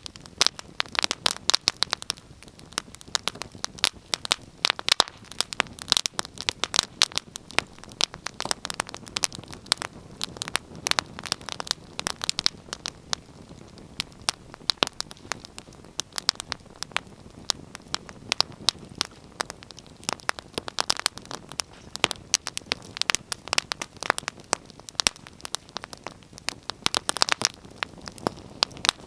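Wood fire crackling, with a dense, irregular run of sharp pops and snaps over a faint steady hiss.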